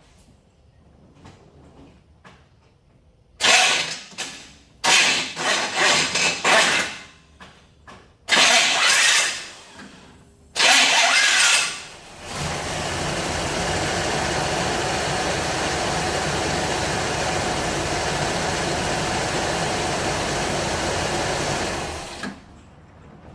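1966 Buick being started, with the weird sound the owner puts down to a bad starter: several short loud bursts of starter noise, then a steady mechanical run of about ten seconds that cuts off suddenly.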